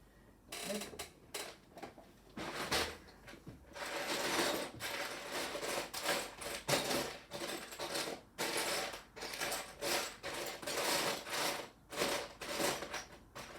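Loose plastic Lego pieces clattering and rattling as a hand rummages through them for a small part: a dense run of clicks that starts about half a second in and goes on with short pauses.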